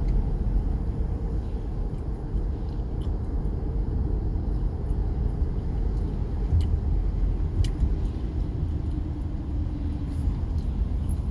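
Steady low rumble of an SUV's engine and tyres on the road, heard from inside the cabin while driving, with a few faint ticks.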